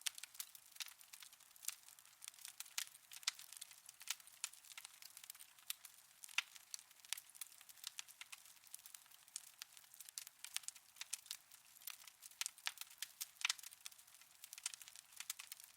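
Fire crackling in a fireplace: a constant run of small, irregular pops and snaps.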